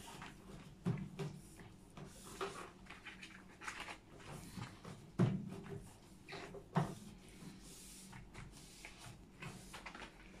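Cloth wiping over the outside of a microwave: irregular rubbing with a few light knocks against the casing and door, the sharpest two about five and seven seconds in.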